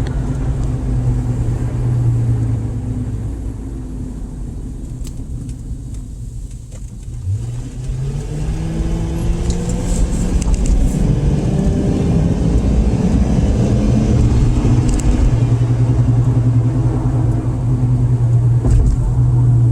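Car engine running, easing off for a few seconds, then accelerating about seven seconds in with its pitch rising, and holding at higher revs after that.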